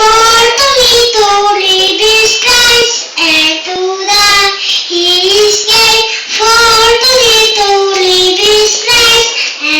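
Children's voices singing a melody, loud and close.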